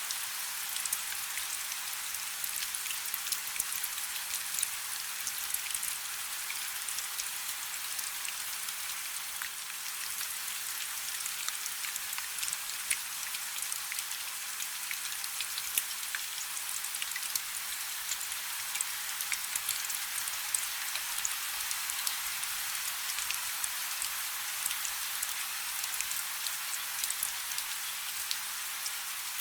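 Light rain falling steadily: an even hiss scattered with many small, sharp ticks of individual drops.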